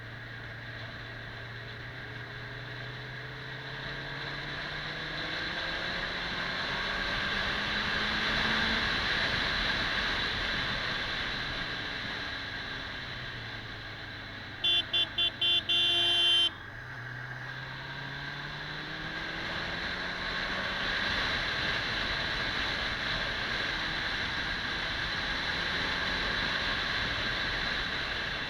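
Kawasaki 400 cc motorcycle engine under way with wind noise, its pitch climbing as it accelerates, easing off, then climbing again. About halfway through, a horn gives four quick toots and one longer toot, the loudest sound here.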